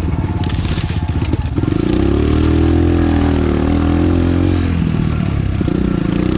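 Enduro dirt bike engine running at low revs, revving higher for about three seconds in the middle, then dropping back.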